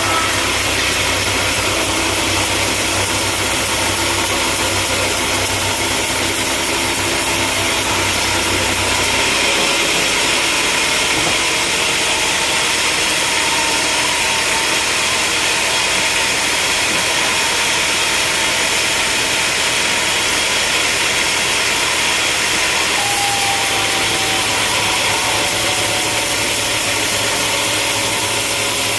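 Sawmill machinery running: a steady engine-like drone over a dense hiss. Its low hum drops away about nine seconds in and returns about two-thirds of the way through.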